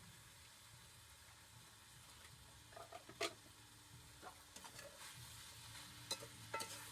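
Near silence: a faint low steady hum with a few sharp clicks, the loudest about three seconds in.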